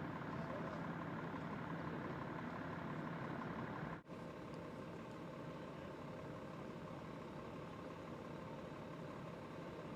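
Vehicle engines idling steadily, with a momentary break in the sound about four seconds in.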